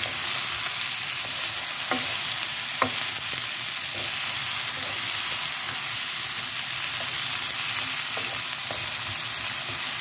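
Whole sea bass and chopped spring onions frying in oil in a pan: a steady sizzling hiss with a few faint crackles.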